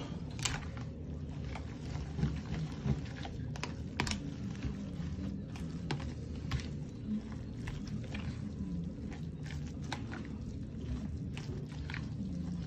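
A utensil stirring a thick mix of ramen noodles, soup and egg in a bowl, with irregular light clicks and scrapes against the container's sides.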